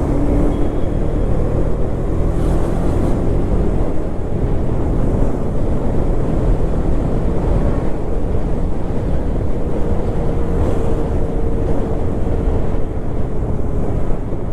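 Wind rushing over the microphone of a KTM Duke 250 rider cruising on the highway, with the bike's single-cylinder engine running steadily underneath.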